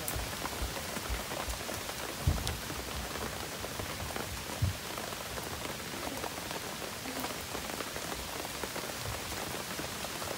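Heavy rain falling steadily on grass, leaves and puddles, an even hiss, with two short thumps about two and four and a half seconds in.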